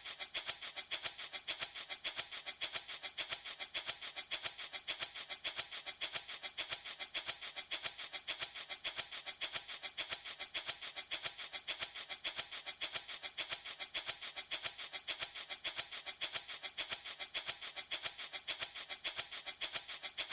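Handmade baby rattle shaken in a steady, even rhythm, each shake a dry, hissy rattle.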